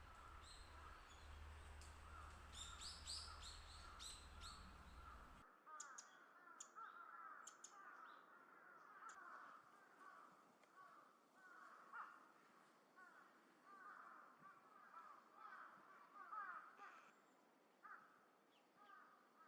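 Crows cawing over and over, faint, with a few high thin calls from small birds. About five seconds in, a low hum stops abruptly.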